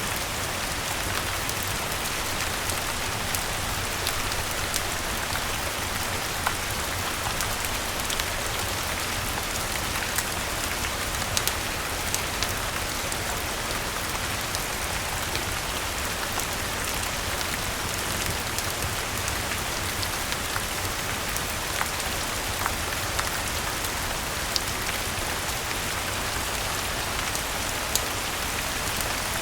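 Steady rain falling on leaves and the ground, an even hiss with scattered sharp ticks of single drops.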